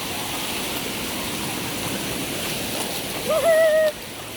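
Sea waves washing with a steady rush of water. About three and a half seconds in, a short high-pitched voice cuts in over it.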